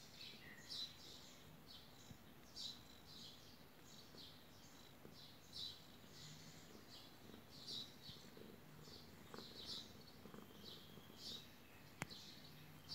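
Faint chirping of small birds: short high chirps repeating irregularly, about one a second, with a single sharp click near the end.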